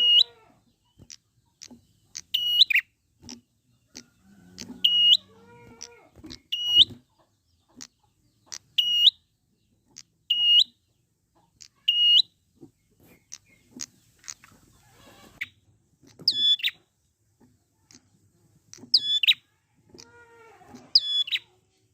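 Wild prinia (prenjak) calling: about ten short, sharp, high call notes, one every second or two, with fainter chirps in between.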